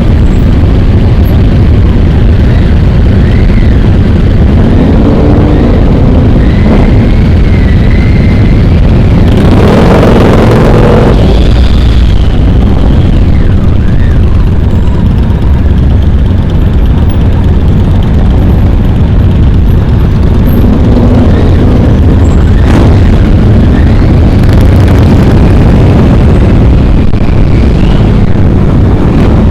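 Motorcycle engines running on a ride, very loud and steady throughout. A louder surge comes about ten seconds in.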